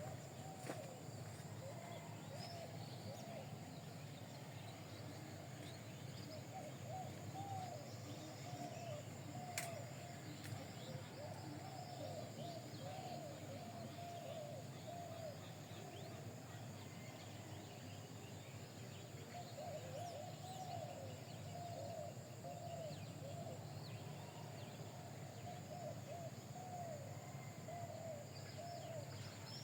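Birds giving short, repeated rising-and-falling calls in quick runs, faint over a steady background hum and hiss.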